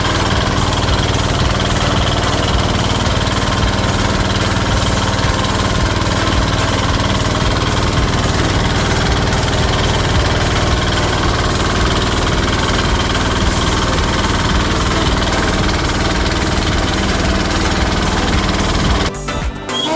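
A small engine running steadily at a constant speed, its rapid even firing pulses heavy in the low end; it stops abruptly about 19 seconds in.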